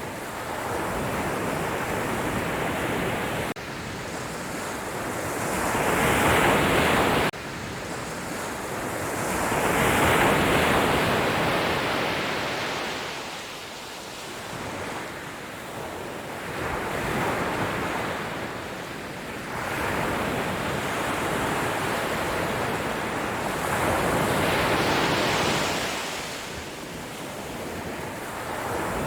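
Ocean waves breaking on the shore, the surf swelling and falling back every few seconds. One surge cuts off abruptly about seven seconds in.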